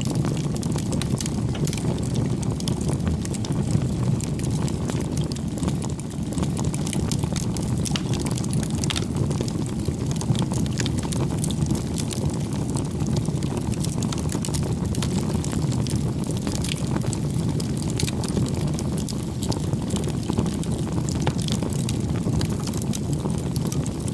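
Campfire burning: a steady low rumble of flames with frequent small crackles and pops from the wood.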